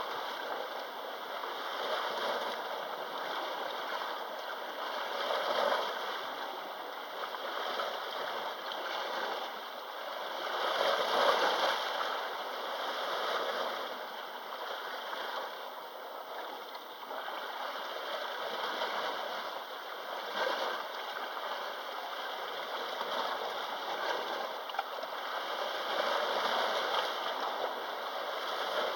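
Sea waves washing in on the shore, a continuous rush that swells and eases every few seconds, the strongest surge about eleven seconds in.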